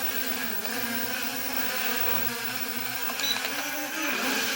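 Small S1S brushless quadcopter flying, its motors and propellers giving a steady buzzing whine whose pitch wavers slightly with throttle and dips near the end. It is flying on a cracked rear-right propeller.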